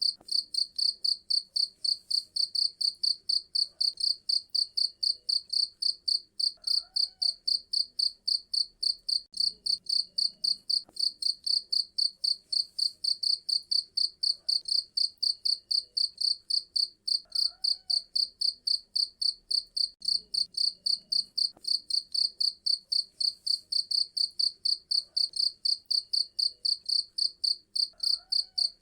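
Cricket chirping loudly and steadily in rapid, even pulses, about four a second, high-pitched.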